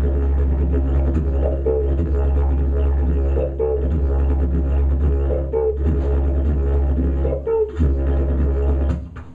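Didgeridoo playing a steady low drone, with short accents about every two seconds. The drone stops shortly before the end.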